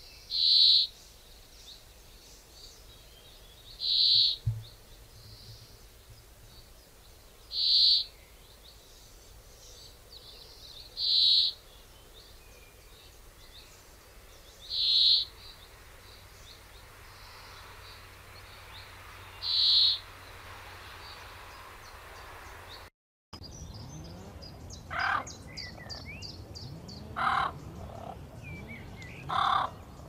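A bird repeats one short, high call six times, evenly spaced about every three and a half seconds. After a sudden break near the end, a different mix of bird calls follows: lower, irregular notes with some high chatter.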